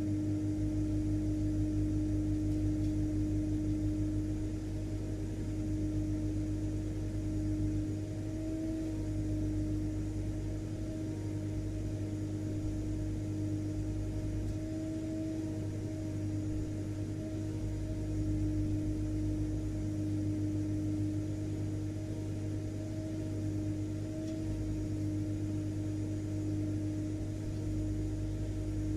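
Vacuum cleaner motor running steadily, a constant whirring hum with a steady motor whine over a low rumble.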